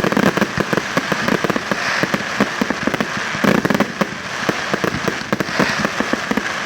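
Fireworks display: a dense, unbroken run of bangs and crackles going off in quick succession.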